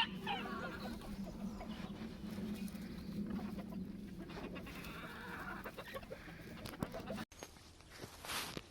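Chickens clucking softly and steadily; the sound stops abruptly near the end.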